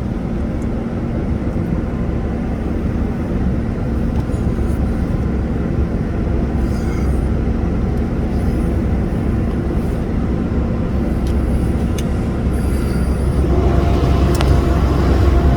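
Boat engine running steadily under way, a low rumble with a constant hum.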